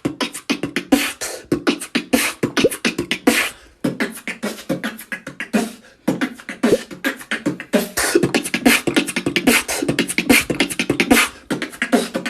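Human beatboxing: a fast run of vocal kicks, snares and hi-hat sounds made with the mouth, gathering speed, with brief breaks about four and six seconds in.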